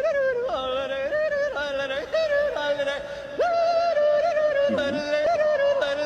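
Wordless singing in long, wavering held notes, two voices moving between pitches.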